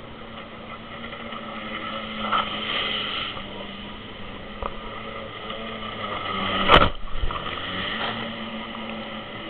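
Jet ski engine running steadily, its level rising and falling, with one sharp knock about seven seconds in.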